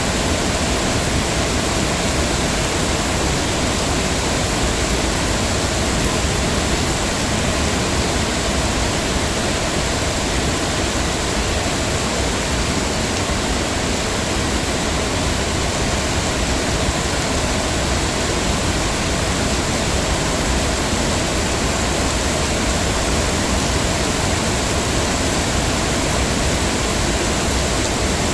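Heavy rain falling in a steady, dense hiss with no distinct drops or pauses.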